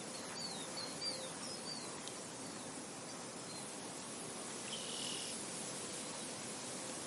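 Steady wind rustling through a field. A few short high bird chirps come in the first two seconds, and a brief buzzy call sounds about five seconds in.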